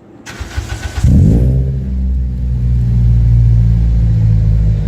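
Seventh-generation Toyota Celica's four-cylinder engine being started: a short burst of starter cranking, the engine catching about a second in with a brief flare, then settling into a steady idle through the exhaust.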